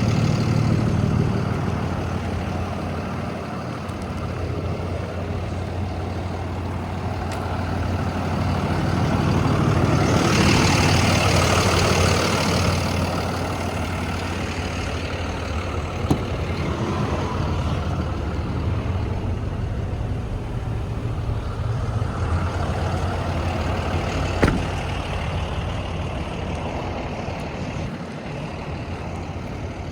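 Heavy diesel truck engine, the 6.7L Cummins turbo diesel of a Freightliner M2 box truck, idling with a steady low hum. A louder hiss rises for a few seconds around the middle, and there are two sharp knocks later on.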